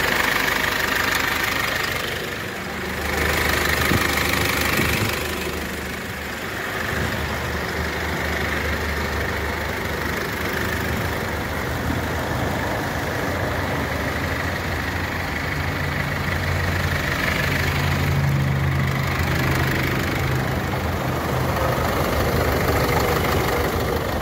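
Several vehicle engines idling at once, heard close up in the engine bays, with the clatter of diesel engines. The sound swells and dips over the first few seconds, then holds steady.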